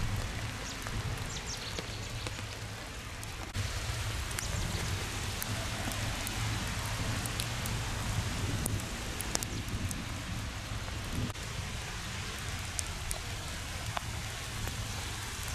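Steady rain falling, with scattered drop clicks over an even hiss and a low rumble underneath. The sound shifts abruptly about three and a half seconds in.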